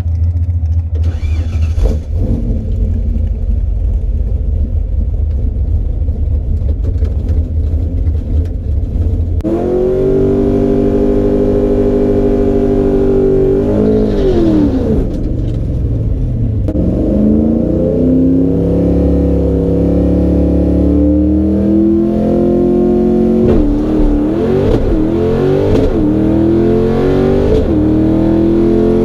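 Car engine running with a steady low rumble, then about nine seconds in it revs up and accelerates, its pitch rising, dropping around a gear change, and climbing again.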